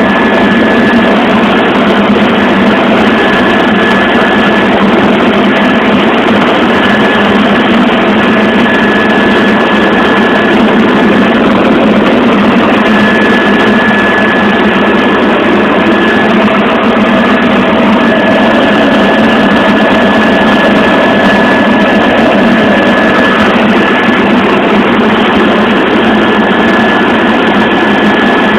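Helicopter cabin noise in flight: engine and rotor running loud and steady, with a constant high whine over the dense noise.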